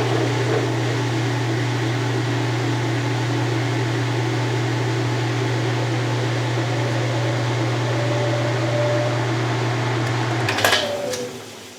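Kenmore 80 Series top-load washer running empty in spin, a steady motor hum with a faint whistle coming in near the end. It stops with a click about ten and a half seconds in.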